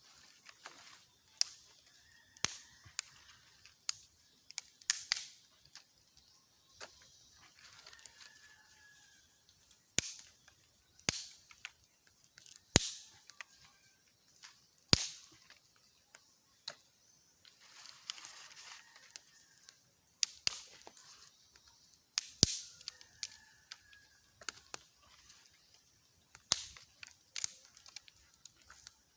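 Irregular sharp clicks and snaps, a few close together and some much louder than the rest, with a few faint short chirps between them.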